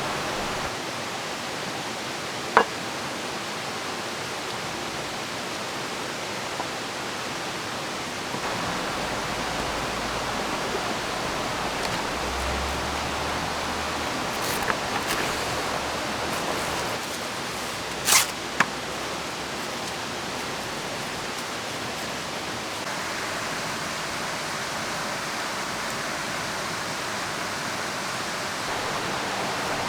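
Steady rush of a flowing river mixed with falling rain. A few brief sharp clicks sound over it, the loudest about two-thirds of the way through.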